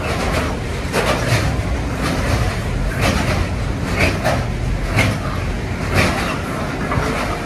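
Freight train passing close by, its wagons making a steady rumble with a knock of wheels over the rail about once a second.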